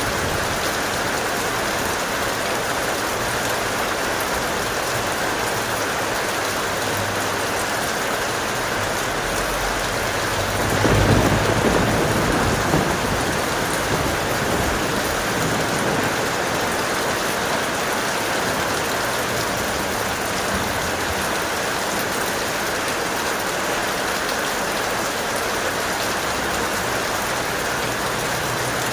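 Steady heavy rain. About ten seconds in, a roll of thunder rumbles low for a few seconds and fades back under the rain.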